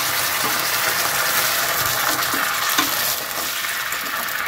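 Onion, capsicum and green chilli sizzling in hot oil in a nonstick pan on high flame as a sauce mixture is poured in and stirred with a spatula, with light scrapes and knocks of the spatula against the pan. The sizzle eases a little about three seconds in as the sauce covers the pan.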